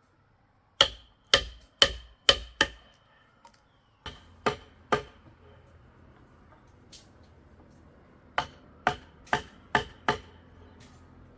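Repeated sharp blows of a hand tool striking, in three runs: five quick strikes, then three, then five more, each with a brief ringing note.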